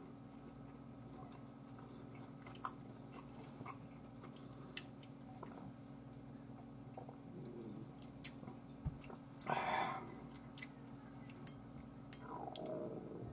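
Quiet close-up chewing of sweet and sour pork, with scattered small clicks and a short louder rush of noise a little before ten seconds in, over a steady low hum.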